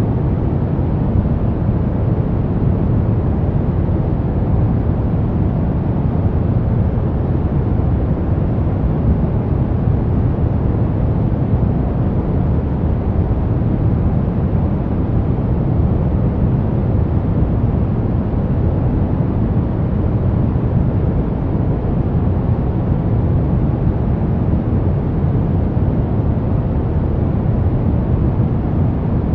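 Brown noise: a steady, even rumbling hiss, weighted heavily towards the low end, with no changes.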